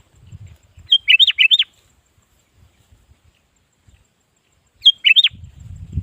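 Sooty-headed bulbul (kutilang) singing two short phrases of quick, bubbly up-and-down notes, the second about four seconds after the first. A low rumble sits under the end.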